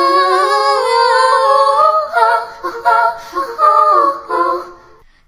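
A high female voice singing a wordless, melismatic melody, sustained notes at first and then shorter broken phrases that fade out near the end.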